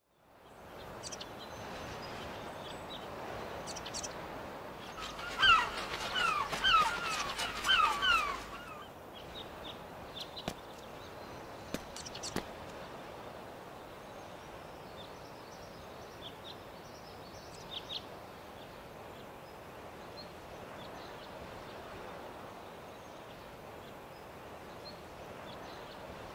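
Outdoor ambience with a steady background hiss. About five seconds in, a bird gives a quick run of short falling call notes lasting about three seconds, and a few faint chirps follow later.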